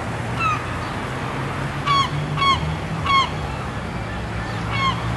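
Birds giving short honking calls, about five in all, with the three loudest close together in the middle, over a steady low hum.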